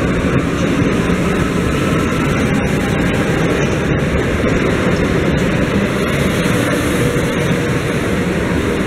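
Two coupled 34WE electric multiple units departing and running past close by: a steady, loud rumble of wheels on rails and running gear, with the last car clearing the track near the end.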